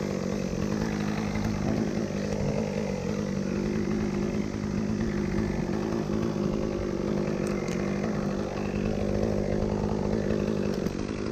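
Two-stroke chainsaw running steadily at high throttle, cutting through hackberry wood.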